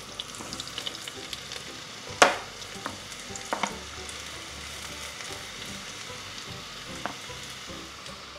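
Sliced field mushrooms sizzling as they hit hot oil and butter in a frying pan, with a few sharp knocks as a spatula and cutting board scrape them into the pan; the loudest knock comes about two seconds in.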